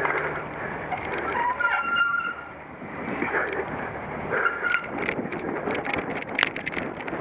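Cyclocross bike ridden over rough ground: the chain and frame rattle with a run of clicks and knocks, with wind noise and a few brief high squeaks.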